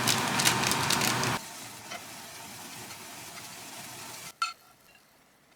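Food sizzling in a hot pan, with a few sharp clicks. The sizzle drops abruptly to a much quieter level about a second and a half in, and a single knock comes near the end.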